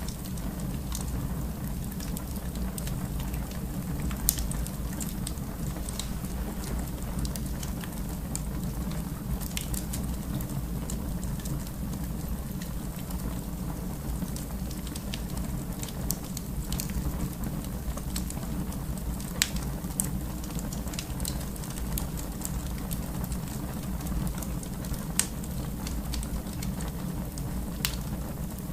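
Wood fire burning in a fireplace: a steady low rumble with irregular crackles and pops throughout, a few of them sharper and louder, about 4, 19 and 28 seconds in.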